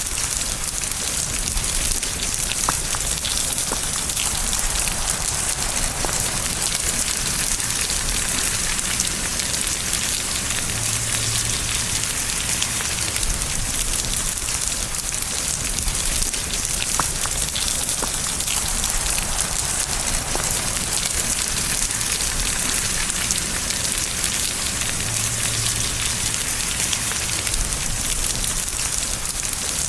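Steady rain falling and pattering on surfaces, an even hiss with scattered individual drop ticks and a faint low rumble underneath.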